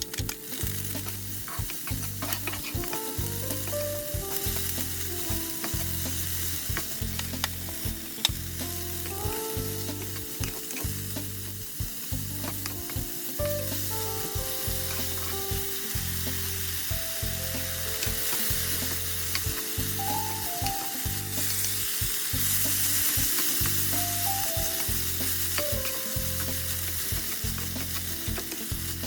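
Food frying and sizzling in a pan, the sizzle growing louder for a few seconds past the middle, with background music of a simple melody over a steady bass beat.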